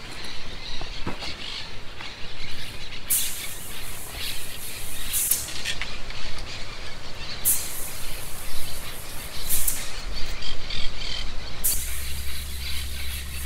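Small birds chirping. A short high hiss sounds about every two seconds, and a low steady hum comes in near the end.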